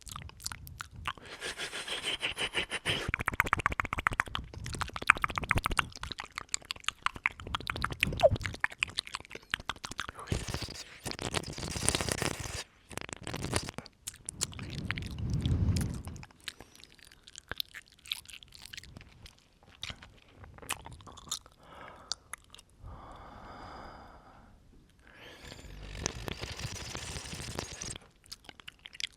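Close-up mouth sounds right at the microphone: many wet clicks and smacks, with stretches of breathing onto it.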